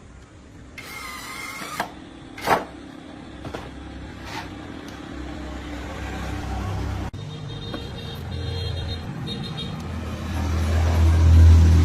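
A few sharp metallic knocks, then a low engine rumble that builds and is loudest near the end, with a sudden break about seven seconds in.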